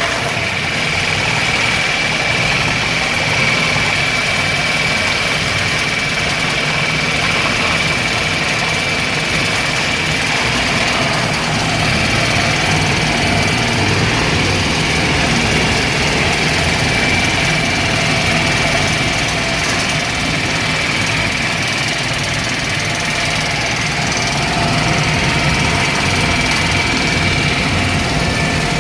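Laser-cutting-table slat grinder running steadily, its grinder teeth working the cutting slag off the table slats. A steady high whine sits over the dense grinding noise.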